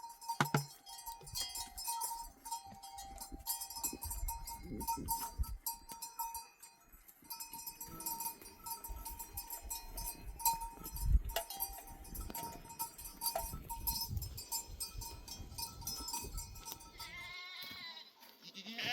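Herd of sheep and goats with bells clinking and jingling, with a steady ringing tone and many small knocks. Near the end one animal bleats.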